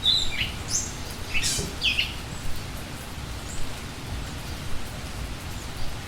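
Steady rain with a few short, sharp bird chirps in the first two seconds, then only the rain.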